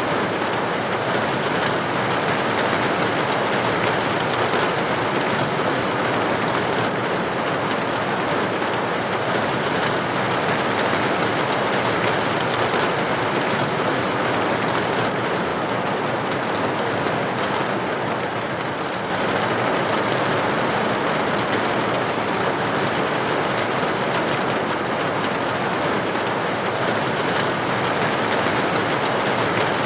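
Steady rain pattering on a window pane, an even hiss. The level sags slightly and then steps back up about nineteen seconds in.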